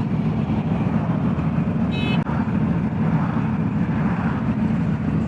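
Motorcycle V-twin engine running steadily at road speed, heard from the rider's own bike with road and wind noise. A brief high-pitched beep sounds about two seconds in.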